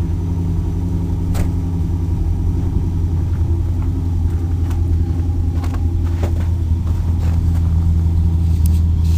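Firebird Formula's LT1 5.7-litre V8 idling steadily through long-tube headers, an off-road Y-pipe and a 3-inch Magnaflow exhaust, a deep even rumble that grows a little louder near the end.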